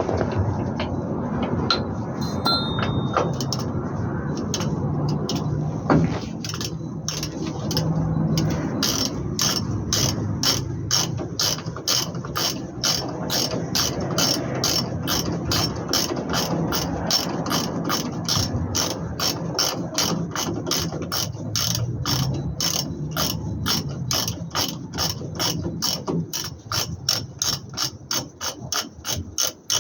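Ratchet wrench clicking in an even rhythm, about three clicks a second, starting about seven seconds in.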